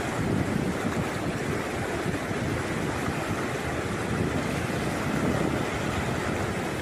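Steady rushing of fast-flowing floodwater, with wind buffeting the microphone.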